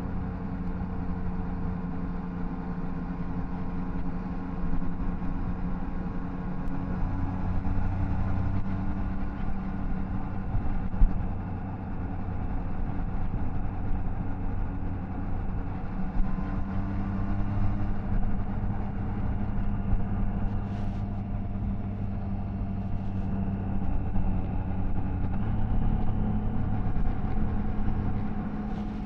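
Triumph Tiger Sport 660's three-cylinder engine and exhaust running on the move at steady revs, over wind and road noise; the engine note shifts a few times as the throttle changes, rising near the end. A single short sharp knock sounds about eleven seconds in.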